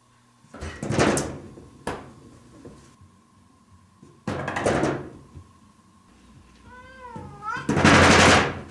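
A cat banging on a door, making three bouts of rattling knocks, with a single meow that rises and falls just before the last and loudest bout.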